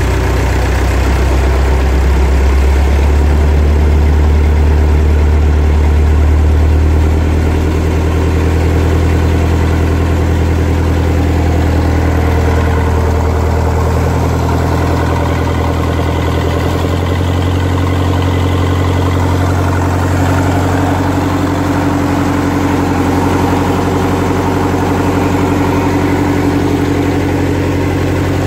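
Ford Dover 2722E marine diesel engine running steadily at a constant speed, with a slight change in its note about seven seconds in and again near the middle.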